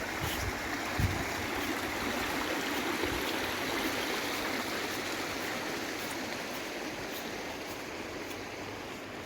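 Small waterfall on a river rushing steadily.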